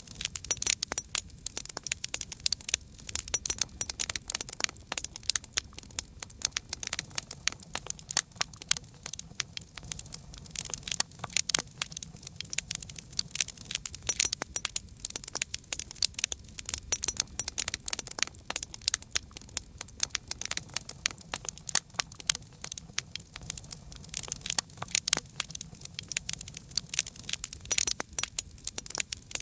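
Campfire crackling: a continuous run of sharp pops and snaps from burning wood over a soft low rumble of the flames.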